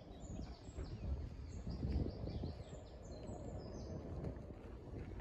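Small birds singing in quick strings of short falling chirps that thin out about four seconds in, over a low outdoor rumble.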